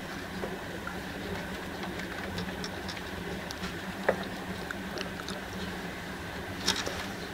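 Interior running noise of a KTX high-speed train nearing a station: a steady hum and rumble with scattered small clicks and knocks, the sharpest about four seconds in and another near the end.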